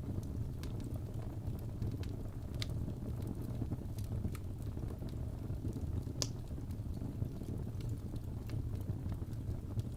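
Fireplace fire crackling: a steady low rumble of flames with scattered pops, one louder pop about six seconds in.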